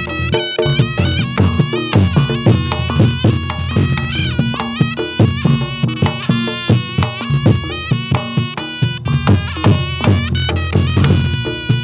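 Reog Ponorogo gamelan accompaniment for a jathilan dance: a slompret reed pipe plays a wavering, ornamented melody over rapid drumming and gong strokes.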